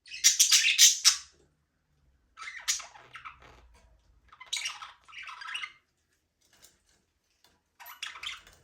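Budgerigars chirping and chattering in four short bursts with quiet gaps between. The first burst, in about the first second, is the loudest and busiest.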